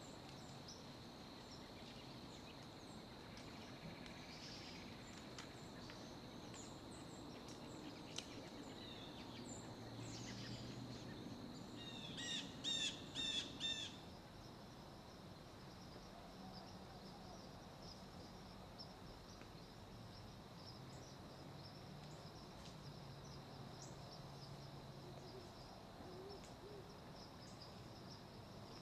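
Faint field ambience with a steady high insect drone. About twelve seconds in, a bird gives a quick run of about five high, chirpy calls lasting some two seconds.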